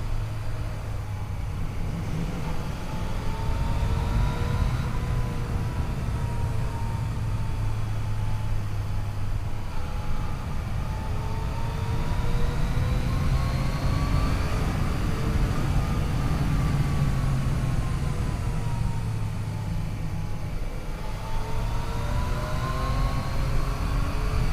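Yamaha FJ-09's three-cylinder engine running under way, its pitch rising and falling gently several times, over a steady low rumble.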